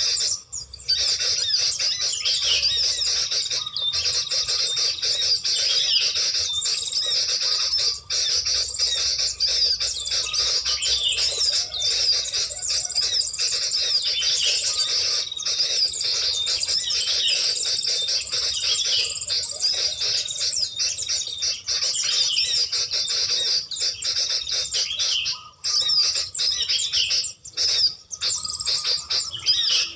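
Small birds chirping and calling rapidly and without pause, high-pitched, with a few brief gaps near the end.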